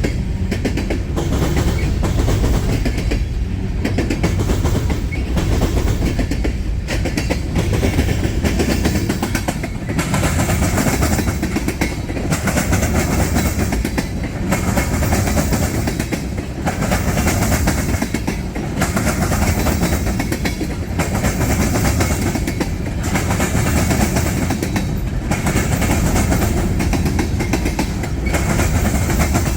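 Freight train cars rolling slowly past: a steady low rumble of wheels on rail with a regular clickety-clack every second or two as wheel sets cross rail joints.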